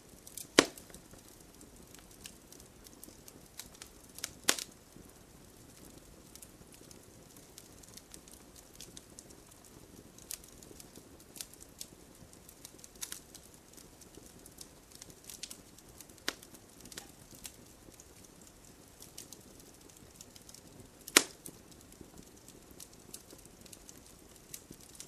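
Wood fire in a fireplace burning with a low hiss and scattered sharp crackles and pops, three of them louder: one about half a second in, one near 4.5 seconds and one near 21 seconds.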